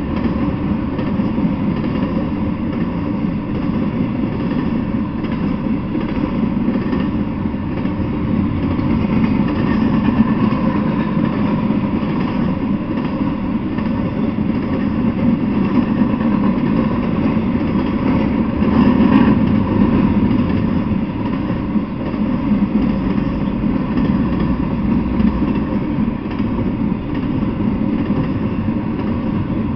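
Intermodal freight train rolling past: a steady, loud rumble of the cars running on the rails, swelling briefly a little past the middle.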